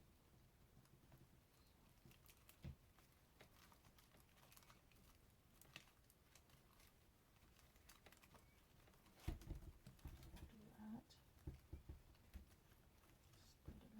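Mostly near silence with scattered faint clicks and rustles of artificial greenery stems being handled and worked into a grapevine wreath, busier over the last few seconds.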